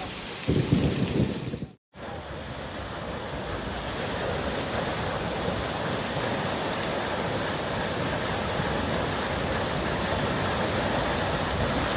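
Rain with a low rumble of thunder about half a second in. After a brief cut, a steady, even rush of water from heavy rain or floodwater.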